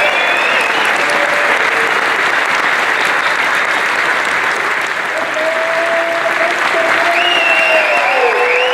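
Large crowd applauding continuously, with a few long tones that bend up and down over it.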